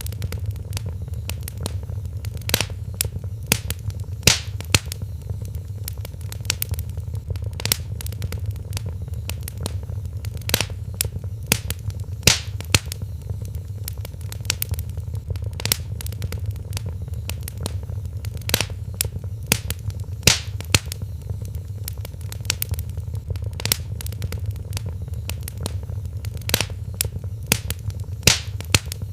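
Wood fire crackling in a fireplace: irregular sharp pops and snaps, a few louder ones every second or two, over a steady low rumble of the flames.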